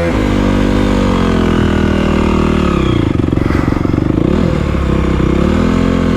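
Honda CRF250 dirt bike's single-cylinder four-stroke engine running just after it has been started. The revs sag for a second or so midway, then pick back up.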